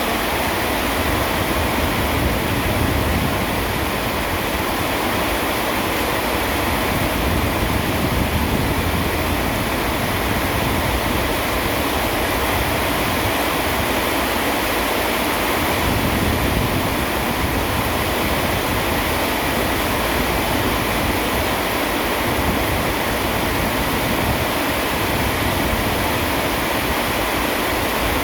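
Steady heavy rain, an even hiss that doesn't change.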